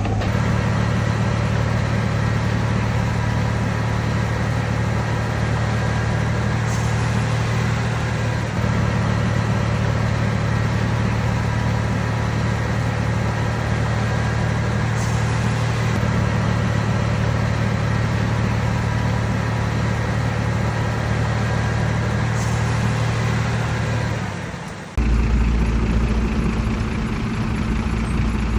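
Heavy diesel engine of earthmoving machinery running steadily. About 25 seconds in, the sound drops briefly and a deeper engine note takes over.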